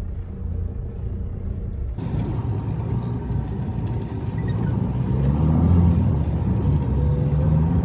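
Tata Harrier's diesel engine and tyres on a rough dirt trail, heard from inside the cabin: a steady low rumble, with the engine note rising and getting louder as the car accelerates in the second half.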